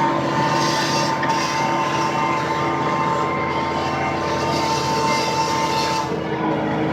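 Case 7220 tractor running steadily under way, a constant engine drone with a steady high whine over it.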